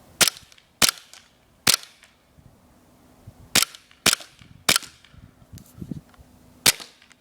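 Seven shots from a CO2-powered blowback airsoft Desert Eagle pistol, each a sharp crack, fired at an uneven pace: three in the first two seconds, three more a little after halfway, and a last one near the end.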